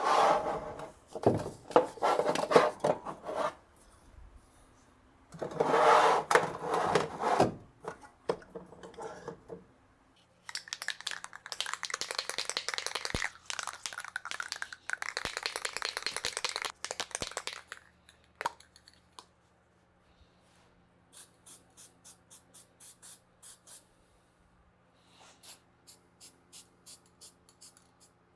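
Sandpaper scraping in irregular strokes over the rusty metal of a Polaris Axys snowmobile exhaust, with a denser stretch of rasping in the middle. Near the end, a steady rattle of two to three clicks a second: a spray paint can being shaken, its mixing ball knocking inside, ready for painting.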